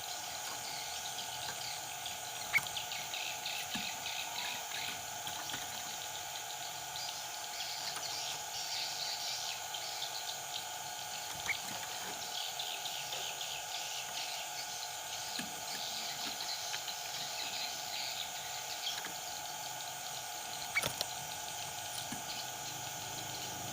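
Yellow-vented bulbuls chirping and calling in quick, busy runs over a steady background hum, with three short sharp clicks.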